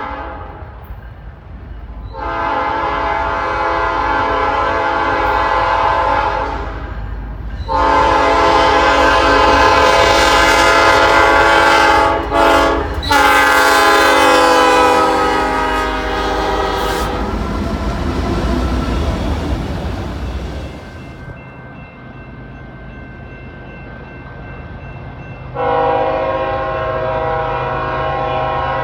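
Diesel locomotive air horn sounding three long blasts in quick succession, the chord dropping in pitch during the third as the locomotive passes. The rumble of the train on the rails follows, and another horn blast comes in near the end.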